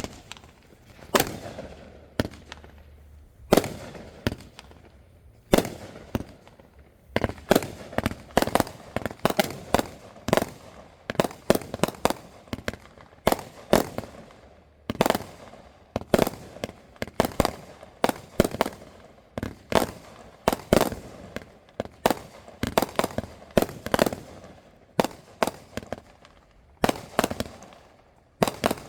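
Fireworks going off in a rapid string of sharp bangs. At first they come about every two seconds, then from about seven seconds in several bangs a second follow one another closely.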